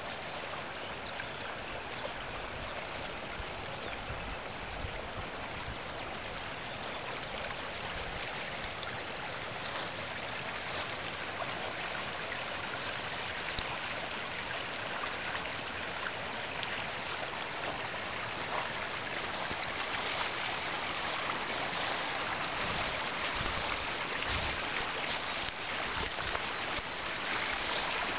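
Spring snowmelt stream running over a small waterfall: a steady rush of water that grows a little louder toward the end.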